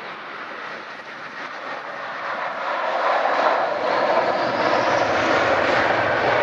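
Airliner's engines roaring as the plane comes close, growing louder over the first three seconds and then holding steady.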